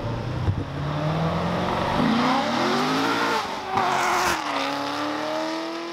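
Car engine revving and accelerating, its pitch climbing, rising and falling, then climbing slowly again, with a brief rush of noise about four seconds in.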